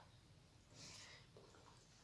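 Near silence with faint mouth sounds of a person chewing food, including a soft hiss-like smack about a second in.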